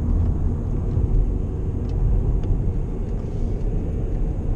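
Steady road and engine rumble of a car driving at freeway speed, heard from inside the cabin.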